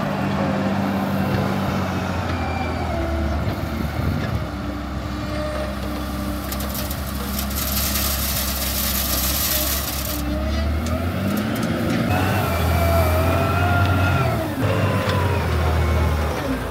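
Heavy trucks and road-paving machinery running steadily during chip-seal asphalt work. About seven seconds in there is a hiss of air lasting a few seconds, and near the end the engine pitch rises and falls.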